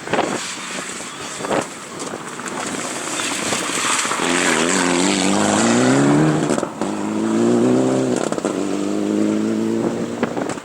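Rally car approaching and accelerating hard past, its engine climbing in pitch with two quick upshifts, then fading away.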